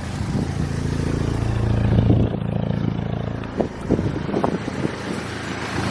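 Stage 2 Mk6 Golf GTI's turbocharged four-cylinder engine idling steadily; its low note changes about two seconds in.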